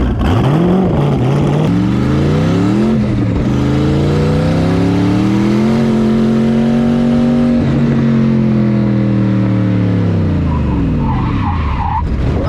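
Twin-turbo 5.3-litre LS V8 in an LS-swapped BMW E36 revving through an autocross run. The revs bounce up and down at first, climb and hold high around the middle, then fall away, with tyres squealing briefly near the end.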